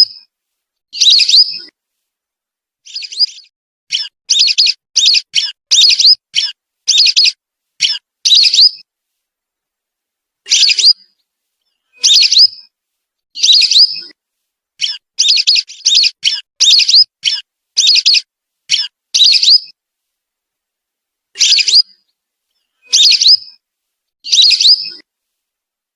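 Whistling duck (belibis) calls from a lure recording: short, high whistled notes, single or in quick runs of three to six, with clean silent pauses between groups, the longest around ten seconds in and again about two-thirds of the way through.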